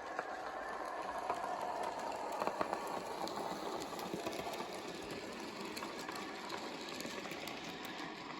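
N gauge model goods train running past: the locomotive's small electric motor whirs steadily and its wheels click over the rail joints. The sound builds slightly, then slowly fades as the train moves away.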